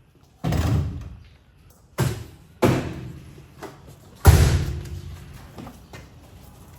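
Four heavy bangs, each ringing out over about a second; the last is the loudest.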